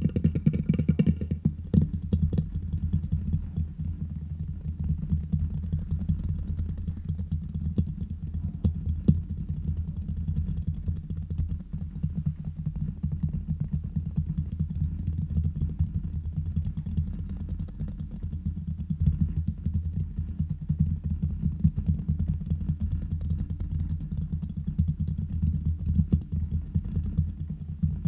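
Fast fingertip tapping and scratching directly on a microphone: a dense, unbroken run of quick, dull, bassy taps.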